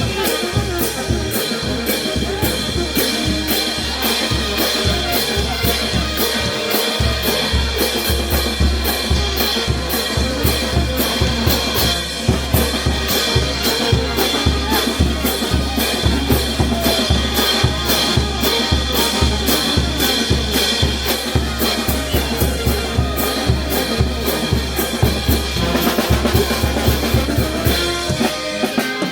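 A Peruvian festival brass band (banda) playing, driven by a steady bass drum and snare beat under held wind notes.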